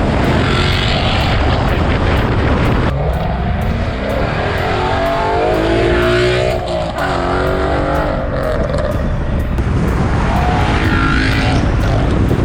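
Ford Mustang GT's 5.0 Coyote V8 running loudly through an aftermarket cat-back exhaust, its pitch rising and falling several times as it is revved and driven.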